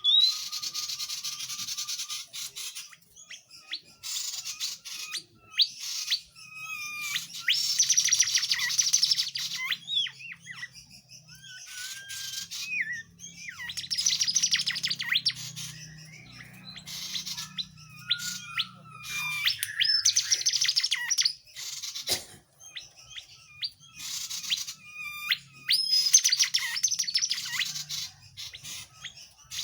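A tledekan jati songbird singing. It gives bursts of rapid, high chattering notes about every six seconds, with thin whistled glides and single notes in between.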